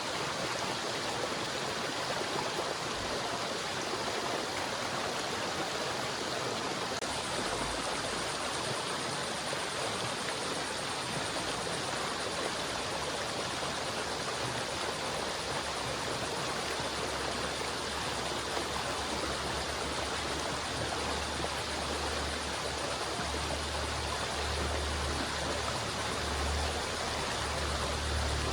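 River water flowing, a steady even rush. A low rumble underneath builds from about a quarter of the way in and is strongest in the second half.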